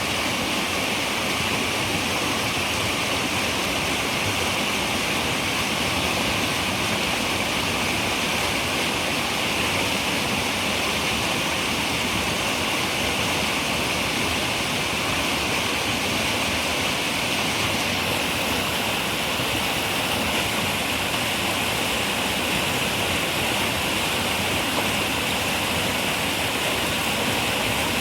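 River water running steadily, a continuous even rushing with its strongest hiss in the upper-middle range.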